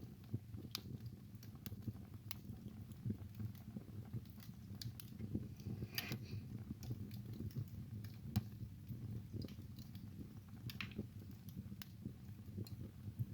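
Wood fire burning in a fireplace: a steady low rumble of the flames with frequent irregular crackles and pops, a few sharper snaps now and then.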